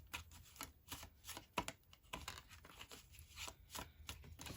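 Oracle cards being shuffled and handled, a quiet run of irregular soft snaps and rustles of card stock.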